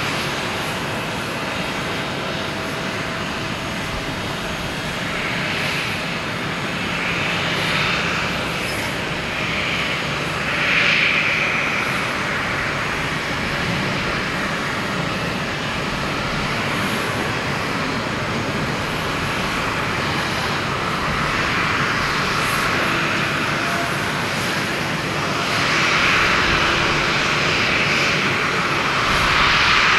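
Jet airliner engine noise: a steady rush that swells louder about ten seconds in and again near the end.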